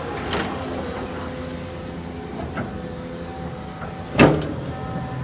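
Caterpillar 320D2 hydraulic excavator's diesel engine running steadily, with a couple of light clanks and one loud metallic knock about four seconds in.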